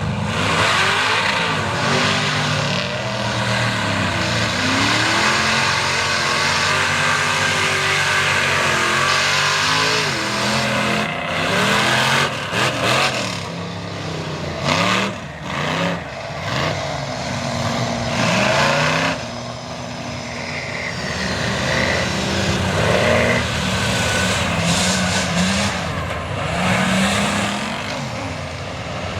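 Mega truck engines revving hard through a mud bog, the pitch climbing and falling again and again, with a few brief louder surges around the middle.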